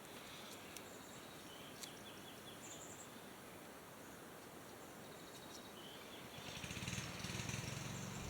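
Outdoor ambience with faint birds chirping. About two-thirds of the way in, a steady low droning sound rises and grows louder toward the end.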